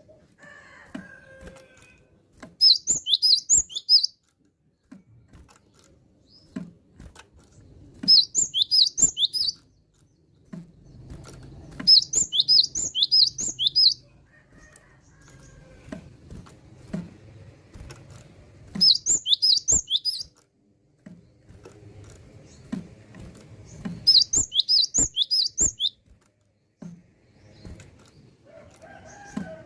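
Cinereous tit (gelatik batu) singing in short phrases of rapid repeated high notes, five phrases about every five to six seconds. Soft ticks and knocks are heard between the phrases.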